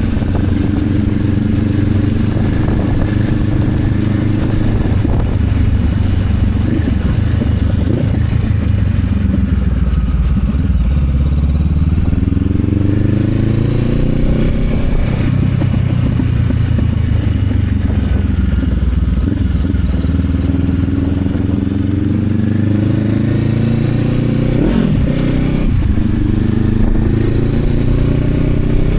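Honda CB500X parallel-twin engine under way, its note dropping and climbing several times as the bike slows and accelerates through the revs.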